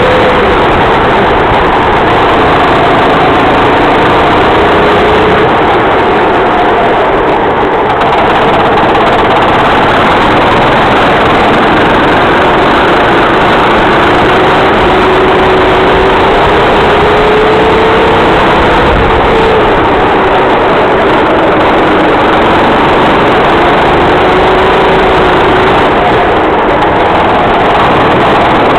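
Racing kart engine running under load, very loud and unbroken, its pitch slowly rising and dropping back several times with the throttle.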